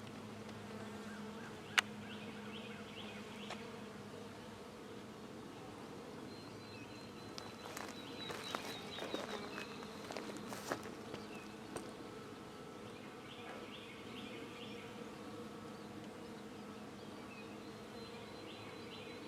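Honeybees buzzing steadily as a swarm flies in and out of a nuc box, scouting it as a new home. A sharp click about two seconds in and a spell of clicking and rustling about halfway through.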